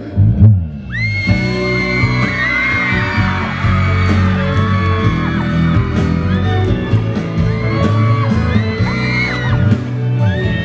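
Live pop band accompaniment playing between sung lines, with many fans screaming over it in overlapping high, rising-and-falling shrieks.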